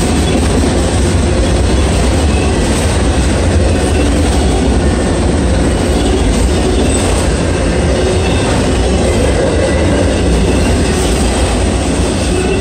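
Freight train of autorack cars rolling past close by: a steady rumble and clatter of steel wheels on the rails, with faint wheel squeals now and then.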